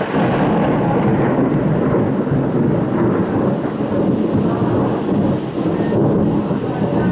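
Loud, long rolling rumble of thunder over falling rain.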